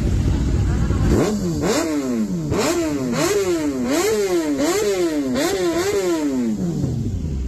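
Kawasaki ZX-10R's inline-four engine through a full-system exhaust, idling and then revved about eight times in quick succession, the pitch climbing and dropping with each rev, before falling back to idle near the end.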